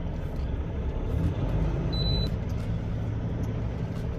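Semi truck's diesel engine running, a steady low rumble, with a brief high beep about two seconds in.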